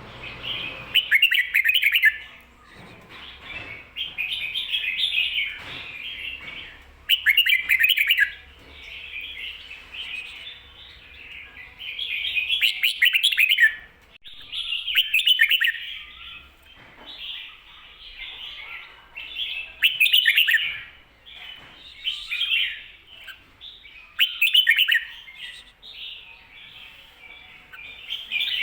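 Red-whiskered bulbul singing the 'doubled' (เบิ้ล) song pattern that keepers use to teach young birds: short bright warbled phrases repeated every two to three seconds, with softer notes in between.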